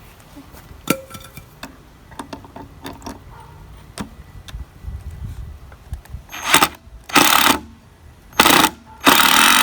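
Scattered light knocks and taps of construction work, then, about six seconds in, a run of loud, short, noisy bursts roughly a second apart from a tool working on the wood.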